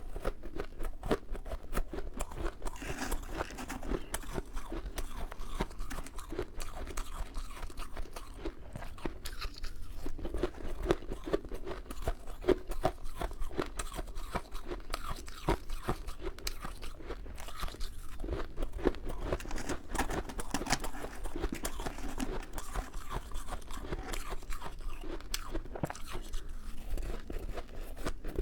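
Close-miked crunching and chewing of soft, powdery freezer frost ice, a dense run of rapid crisp crunches throughout.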